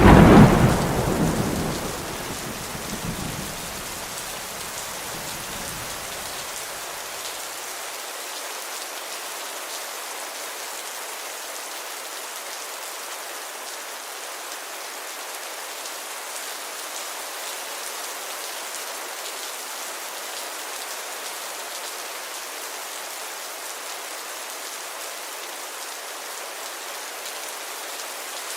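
Steady rain falling, an even hiss. A loud thunderclap right at the start rolls off in a low rumble over the first several seconds, leaving only the rain.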